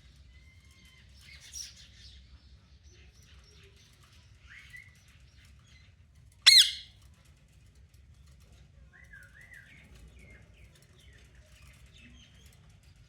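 Pet parrot calling in its cage: scattered soft chirps and warbling notes, with one loud, sharp squawk about six and a half seconds in.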